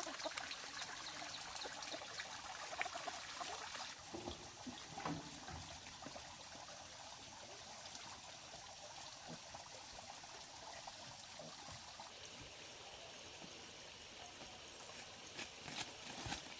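Water trickling steadily, with a few light clicks and knocks.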